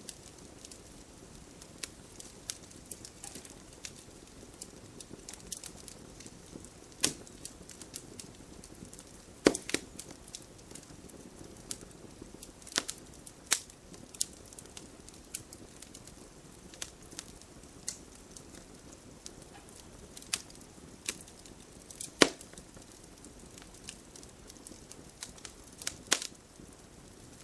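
Wood campfire burning and crackling: a soft steady hiss with irregular sharp pops and snaps from the burning logs, a few of them much louder.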